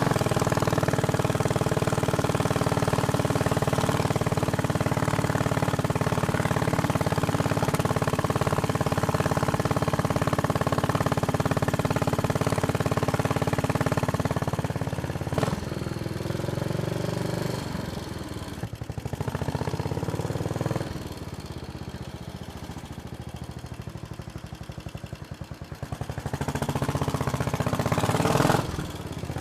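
Royal Enfield Bullet Machismo 500's single-cylinder engine running steadily under way, over a rush of noise. About halfway through it eases off and drops to a lower, quieter level, then picks up again near the end.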